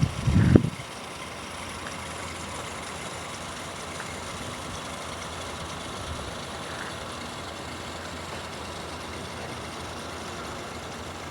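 A short, loud low thump at the very start, then a steady, even rumbling background noise.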